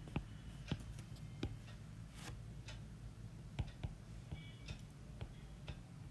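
Irregular light clicks and taps, a few per second at uneven spacing, over a faint steady low hum.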